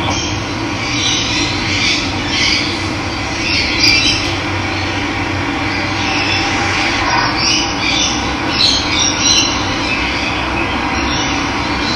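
Steady rush of running water, with birds chirping and calling over it every second or two.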